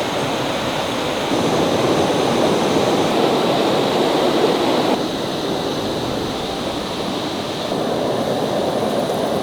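Steady rushing water, an even wash of noise that shifts in level slightly about five seconds in and again near eight seconds.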